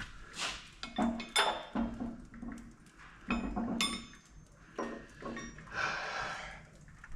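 Metal tools and engine parts clinking and scraping as they are handled, with several sharp metallic clinks spread through, some ringing briefly.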